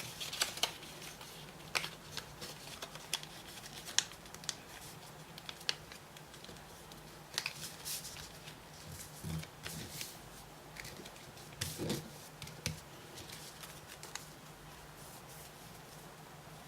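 A sheet of origami paper being folded and creased by hand: scattered crisp taps and short rustles, over a faint steady low hum.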